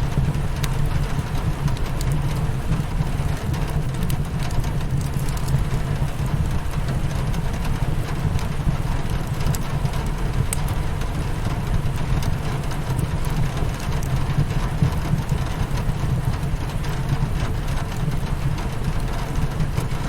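Steady rain against a window, with a constant low rumble and scattered small crackles from a wood fire in a fireplace.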